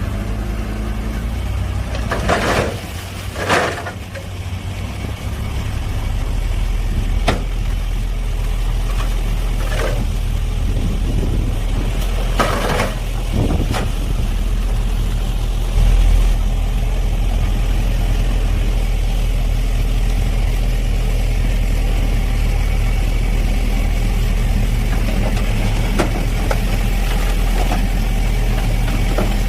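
Heavy diesel engine of earthmoving machinery running steadily, growing louder about six seconds in. Several short, loud noises cut through it during the first fifteen seconds.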